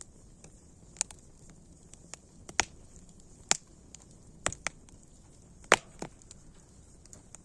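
Wood fire crackling: sharp, irregular pops, the loudest one late on, over a faint steady hiss.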